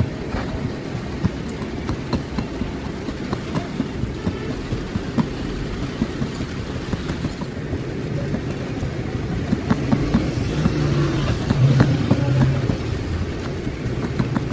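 An engine running with a steady low rumble and scattered small ticks, swelling louder about ten seconds in and easing off near the end.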